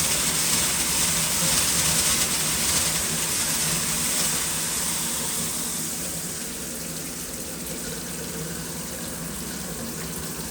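Shower water gushing with air in the supply line, a steady noisy rush that gets quieter about halfway through. The air in the line is a sign the water was shut off and reconnected, which the owner suspects was a water main break or pipe repair.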